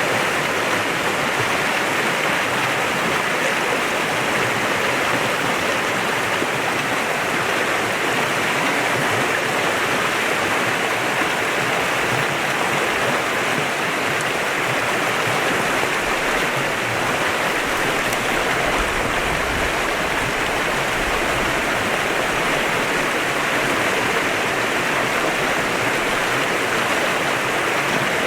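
Clear river flowing, a steady, unbroken rush of water.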